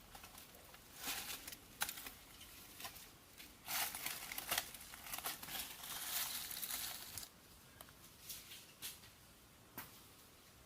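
Crinkling, rustling handling noise broken by sharp clicks, loudest and densest in the middle, then thinning to a few scattered ticks.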